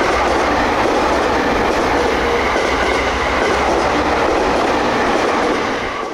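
Sotetsu electric commuter train passing close by at speed, its steel wheels running over the rails with a steady, loud noise and a faint held whine from the running gear.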